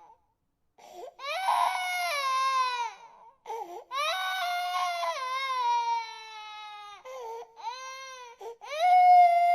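Infant crying in a run of long wails, each falling in pitch, with short gasping breaths between them. The cries begin about a second in, after a brief silence, and the loudest wail starts near the end.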